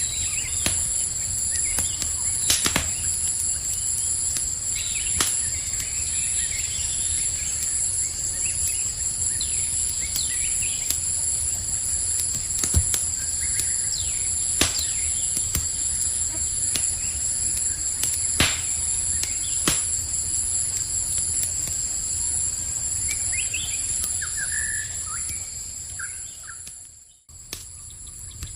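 Campfire crackling, with sharp pops every few seconds, over a steady high-pitched chorus of crickets and a low rumbling hiss. A few bird chirps come near the end, then the sound cuts out for a moment and returns quieter.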